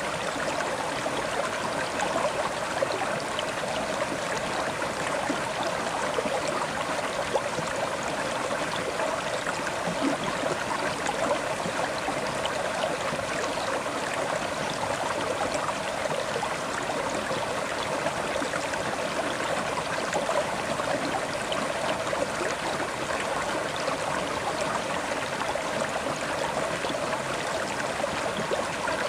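River water flowing and splashing over stones, a steady rushing with small gurgles.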